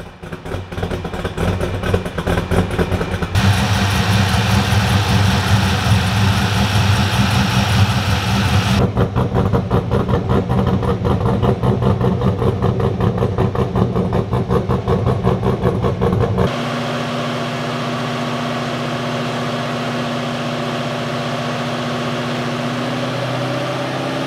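Holden VY SS ute's 5.7 L LS1 V8, fitted with a Crow Cams 1250 camshaft, idling through its aftermarket exhaust with a choppy, pulsing beat. About two-thirds of the way in, the pulsing gives way to a steady, even drone.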